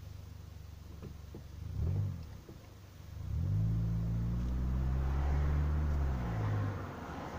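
Car engine heard from inside the cabin while driving, its note climbing as the car speeds up about three seconds in, then holding steady.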